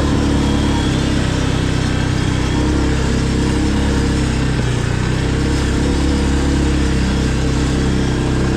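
A small engine running steadily at an even speed, a constant low hum with no revving or change in pitch.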